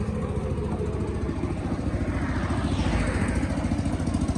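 A small engine running steadily with an even, rapid pulse. About two seconds in, a rushing hiss swells and fades over it.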